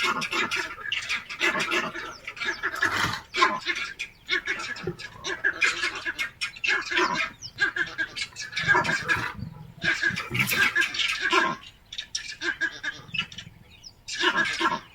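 Many birds calling over one another in short, repeated calls, thinning out for a couple of seconds near the end before picking up again.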